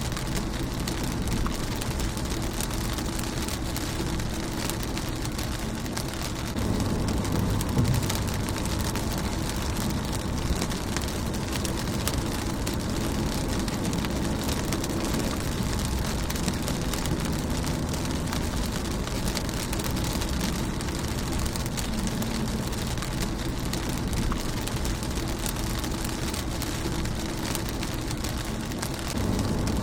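Rain falling on a car's windshield: a steady patter of many small drop ticks over a hiss, with a low rumble underneath that swells about six seconds in.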